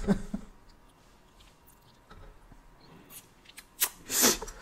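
Close-miked eating sounds: chewing fried fish taco with soft wet mouth clicks, then a short, louder crunchy rustle about four seconds in.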